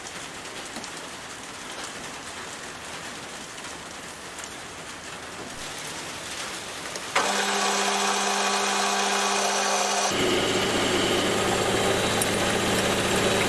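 A steady hiss, then about seven seconds in a lathe starts suddenly and runs with a steady motor hum and whine for a cut on a hinge pin. Its sound changes about three seconds later, taking on a lower hum.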